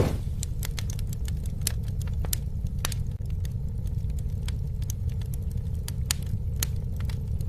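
Campfire burning: irregular sharp crackles and pops over a steady low roar of the flames.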